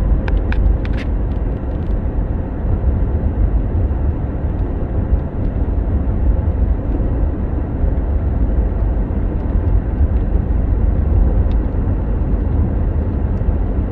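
Steady low rumble of a moving car, heard from inside the cabin, with a few light clicks in the first second.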